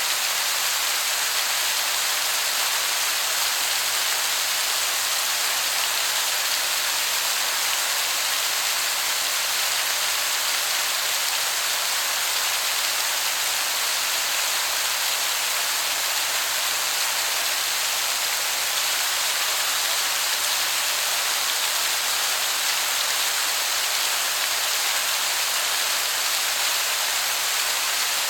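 Waterfall heard from a distance as a steady, even hiss of falling water, much like heavy rain.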